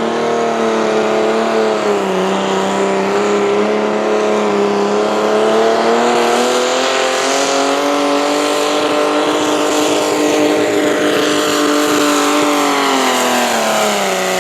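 Pulling tractor's engine running hard at full throttle under load. Its pitch dips slightly, climbs and holds, then drops away near the end as the throttle is let off.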